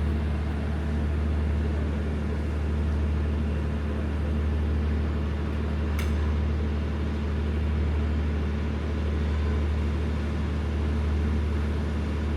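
Steady low hum of an idling diesel passenger train during boarding, with a single short click about six seconds in.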